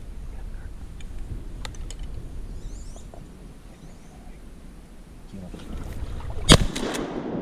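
Low rumbling and sloshing of water with a few faint clicks, then one loud shotgun blast about six and a half seconds in, ringing out after the report.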